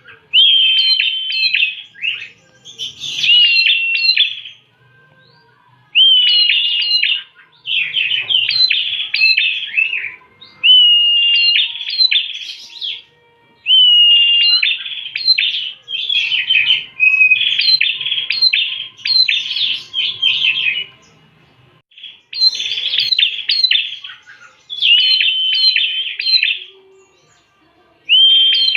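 Prenjak (prinia) song played as a lure call: loud phrases repeating about every one to two seconds, each opening with a short steady whistle and breaking into a quick string of sharp, chipping notes, with brief pauses between.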